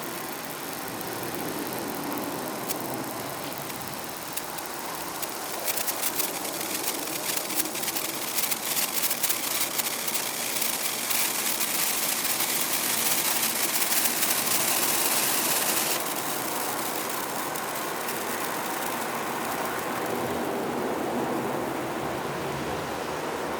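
Senko hanabi sparkler crackling: a rapid patter of tiny pops from about five seconds in that stops suddenly at about sixteen seconds, over a steady background hiss.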